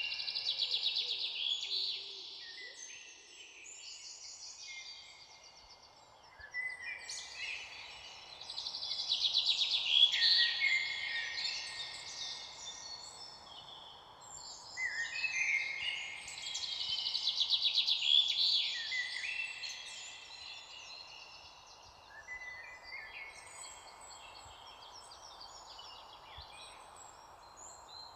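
Songbirds singing: overlapping phrases of rapid high trills and falling notes that swell loud about every seven or eight seconds, then grow fainter near the end, over a faint steady background hiss.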